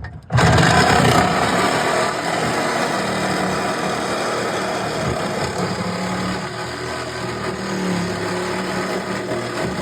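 A power cutting tool switches on abruptly and runs steadily and loudly, cutting through the car body's sheet metal.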